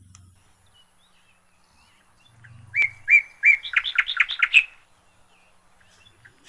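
A songbird singing: three separate whistled notes followed by a faster run of quick notes, lasting about two seconds, about halfway through.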